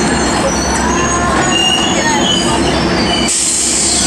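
Metrolink commuter train rolling along the platform, its wheels squealing in high, wavering tones over a steady rumble. A sudden hiss comes in about three seconds in.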